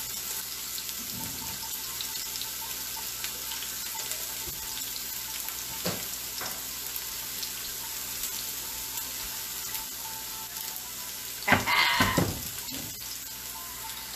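Steak, onions and mushrooms sizzling steadily on a hot griddle pan. A short, loud scraping sound breaks in near the end.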